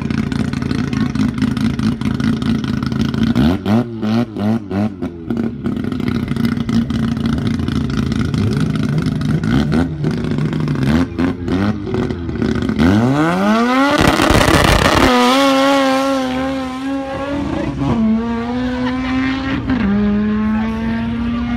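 Drag-racing pickup's engine idling with throttle blips, then launching about 13 seconds in with a steep rise in revs, followed by gear changes that drop the pitch as it pulls away down the strip.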